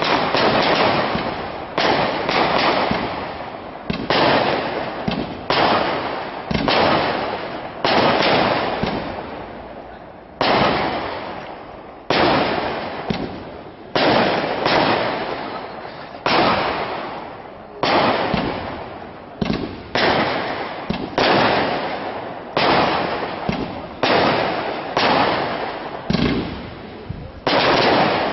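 Aerial firework shells bursting one after another, about two dozen sharp bangs roughly one to two seconds apart, each dying away slowly before the next.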